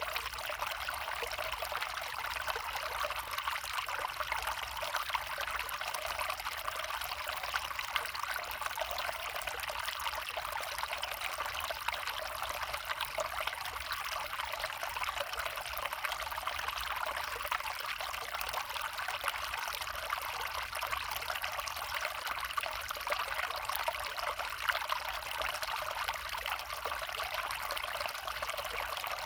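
A brook flowing steadily, an even, unbroken trickling babble of water.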